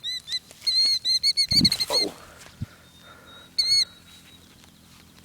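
Killdeer giving rapid, shrill, trilling alarm calls in two quick runs, then one short call about three and a half seconds in: a parent bird scolding an intruder near its ground nest of eggs.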